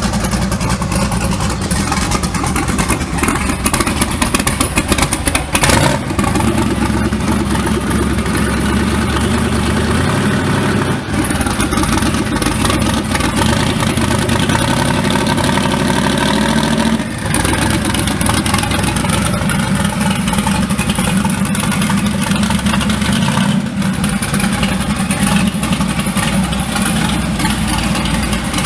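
Twin-turbo 5.3 V8 Chevy S10 engine running hard under full throttle in a street drag race, the sound staying loud throughout with a few short dips or breaks. The owner says the truck's transmission is slipping.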